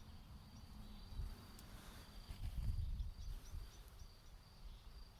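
Rural outdoor ambience: a steady high insect trill with short, quickly repeated chirps above it. A low rumble and a couple of dull thumps come through on the microphone about halfway through.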